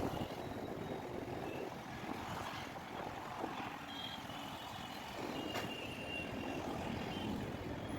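Road traffic noise with several short, high-pitched beeps scattered through it, and one sharp click a little past halfway.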